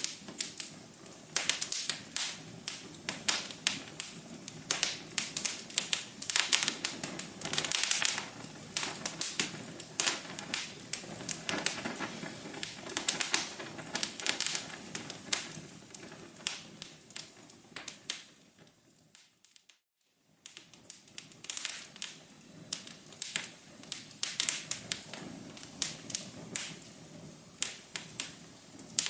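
Fireplace fire crackling: dense, irregular pops and snaps over a soft steady hum. The crackling fades away almost to nothing for about a second roughly two-thirds of the way through, then starts again.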